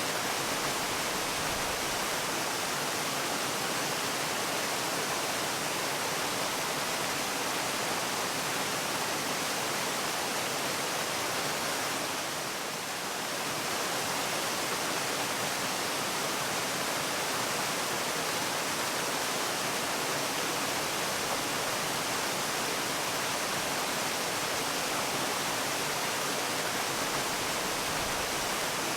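Waterfall: a steady, even rush of falling water with no breaks, dipping slightly for a moment about halfway through.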